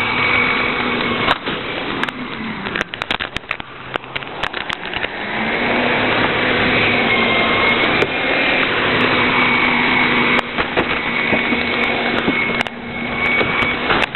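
Rear-loader garbage truck running, with scattered knocks and clanks in the first few seconds. About five seconds in it grows louder and holds there, with a steady high whine over the engine.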